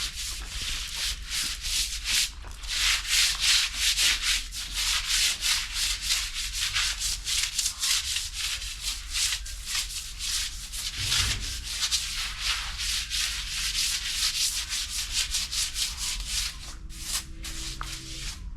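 Broom sweeping, quick regular brushing strokes at about four a second.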